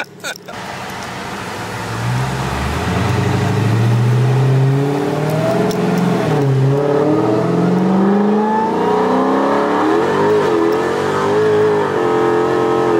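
Car engine under hard acceleration, its pitch climbing through each gear and dropping briefly at upshifts about six and ten seconds in, heard from inside the car.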